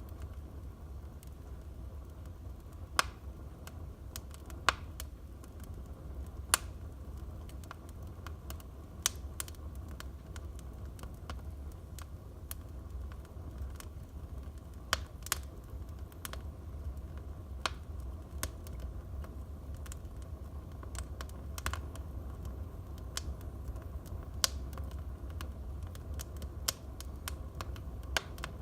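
Wood fire in a fireplace crackling: irregular sharp pops and snaps over a steady low rumble, with the loudest pops a few seconds in.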